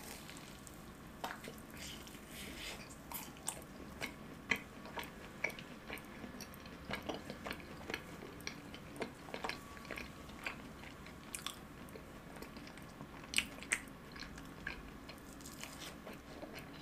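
A person biting into and chewing a deep-fried cheese ball close to the microphone: scattered small crunches of the crisp fried shell and wet mouth clicks, spread unevenly throughout.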